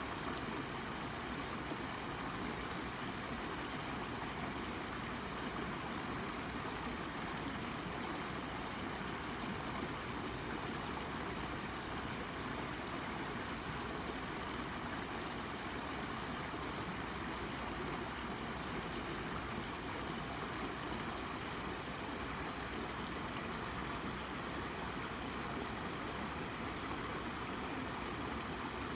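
A babbling brook with water flowing and burbling over a rock, in a steady, even rush.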